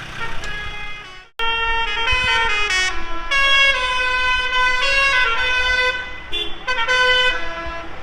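A vehicle's musical horn sounding a run of notes that step up and down like a tune, over engines running underneath.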